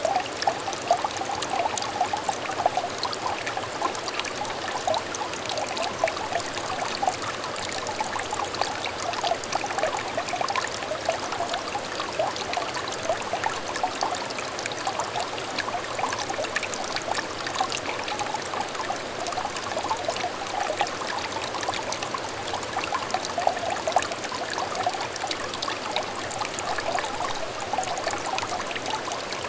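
A small clear stream trickling and babbling steadily, with many small bubbling notes in the flow.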